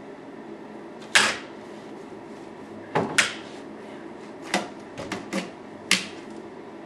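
A broom knocking against a window frame and screen to knock off snow: about seven sharp wooden knocks spaced irregularly, some in quick pairs, over a steady background hiss.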